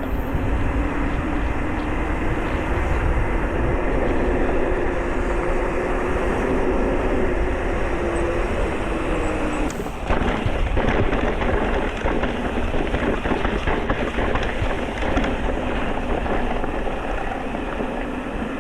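Electric mountain bike being ridden on a rough trail: heavy wind rumble and rattling of the bike, with a motor whine that slowly rises in pitch and cuts off about ten seconds in. After that the ride is a run of knocks and clatter over rough ground.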